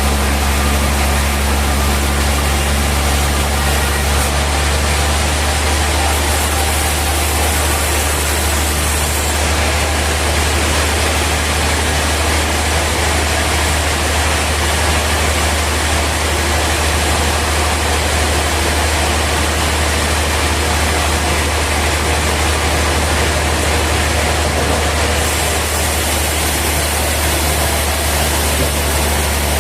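Sawmill machinery with industrial saws running steadily: a loud, constant low hum with a broad noisy rush over it.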